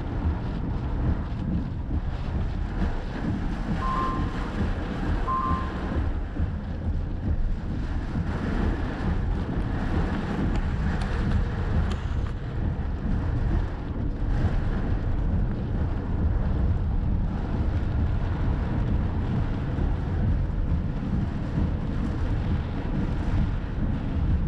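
Wind buffeting the microphone, a steady low rumble, with two short beeps about four and five and a half seconds in.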